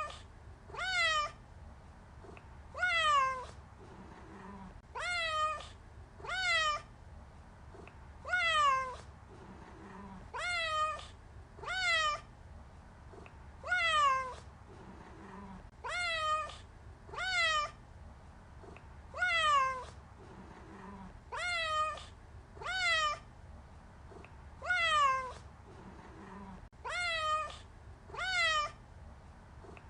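Domestic cat meowing over and over, one short meow every second or two, each rising briefly and then falling in pitch.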